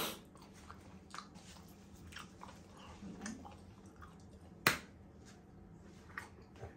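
Faint mouth and chewing sounds: soft wet clicks and smacks scattered through, with one sharp click about two-thirds of the way in.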